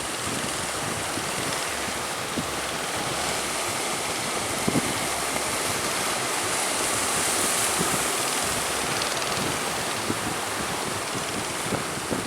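Strong wind buffeting the microphone over rough open-sea waves: a steady rushing noise with occasional brief low thumps from gusts.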